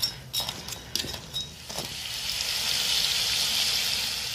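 A few sharp clinks and knocks of a metal ladle in a steel pot of crab, then crab pieces frying in a hot pan with spices: a steady sizzling hiss that builds about two seconds in.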